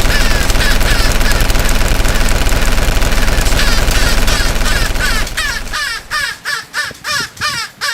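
Crow-like cawing, repeated rapidly, over a loud continuous rattle of video-game machine-gun fire. About five seconds in the rattle stops and the caws carry on alone in quick bursts.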